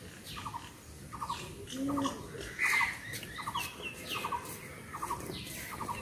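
Birds calling outdoors: short falling whistled calls over a low three-pulse call that repeats evenly about once every three-quarters of a second, with a louder call a little before the middle.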